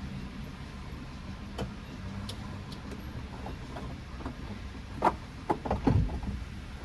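Low steady rumble of a car, with a few light clicks and then a short cluster of louder knocks and clicks about five to six seconds in.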